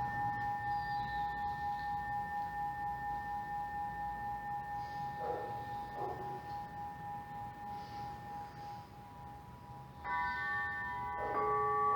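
Quartz crystal singing bowls ringing with several long, steady, overlapping tones that slowly fade. About ten seconds in, another bowl is sounded, adding new tones and growing louder.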